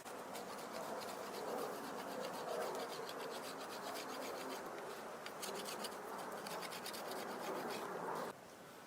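Steady scratching and rubbing with fast, fine crackles, which cuts off abruptly about eight seconds in.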